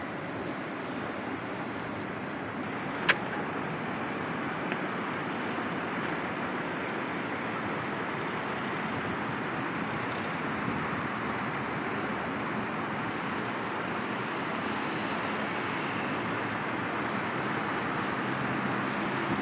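Steady city street traffic noise, a constant rush of passing vehicles, with one sharp click about three seconds in.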